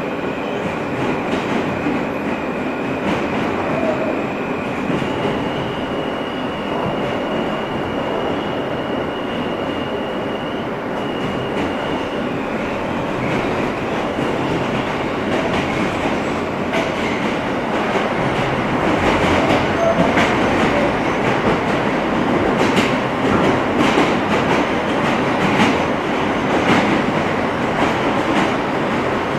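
R160 subway car running between stations, heard from inside the car: a steady rumble of wheels on rail with a thin high tone held through the first half. The train gets louder in the second half, with rail-joint clicks coming more often.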